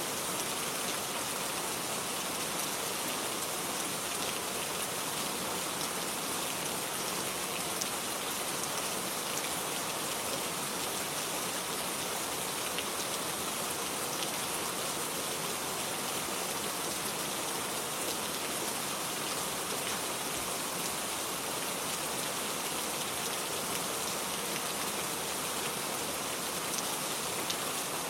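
Steady rain falling, a constant hiss dotted with many small drop patters.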